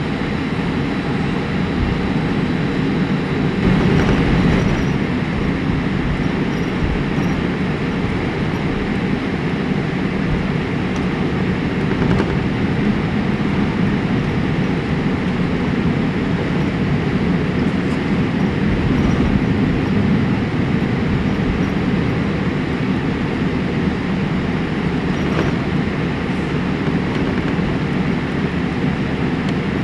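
Boeing 787-8 cabin noise while taxiing: a steady low rumble of the engines at idle and the wheels rolling along the taxiway.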